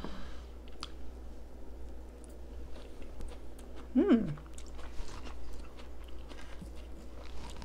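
Close-miked chewing of a mouthful of low-carb Big Mac casserole (beef, cheese, shredded lettuce and pickles under dressing), with many small wet clicks and light crunches. A short 'mm' hum, falling in pitch, comes about four seconds in.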